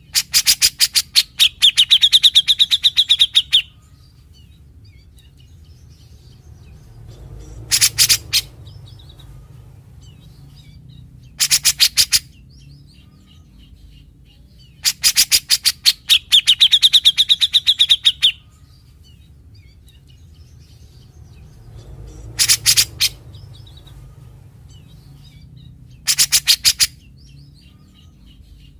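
Cucak jenggot (grey-cheeked bulbul) calling in harsh, rasping bursts of rapid clicking notes, the besetan typical of the species: two long phrases that end in a ringing whistle, and between them shorter rasps a few seconds apart. The same sequence comes round twice, about fifteen seconds apart, as in a looped recording.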